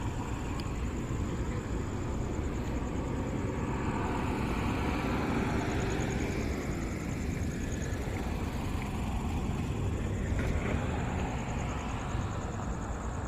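Road traffic passing steadily, with a couple of vehicles swelling past and fading.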